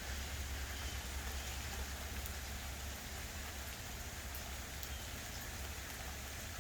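Light rain falling steadily: an even hiss with faint ticks of single drops. A low rumble runs underneath and eases about three seconds in.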